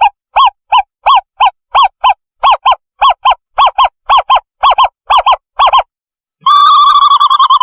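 Owlet lure call: a rapid series of short whistled hoots, about three a second, each rising and falling in pitch. After a brief pause, a long, fast-quavering trill starts near the end.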